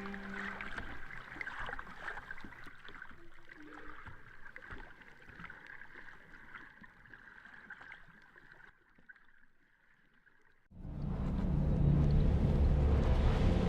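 Water sloshing and trickling with small scattered splashes, fading away to near silence. About three seconds before the end, a loud rushing noise with a low hum starts abruptly.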